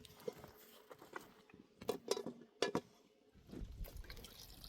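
Scattered light knocks and clinks, the loudest a cluster about two to three seconds in, then a low rumbling noise from about three and a half seconds.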